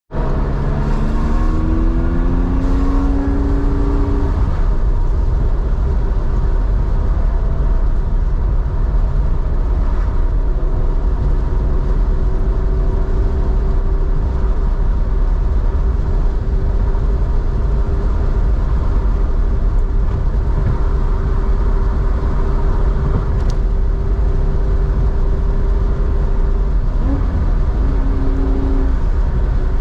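Porsche 911's air-cooled 3.4-litre flat-six running through a Scart two-in-one-out muffler. Its pitch rises under acceleration over the first few seconds, then it holds a steady drone while cruising, dropping briefly in pitch near the end.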